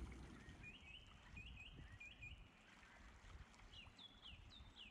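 Near silence: faint low background noise with a few faint high bird chirps, in quick pairs, then a few falling chirps near the end.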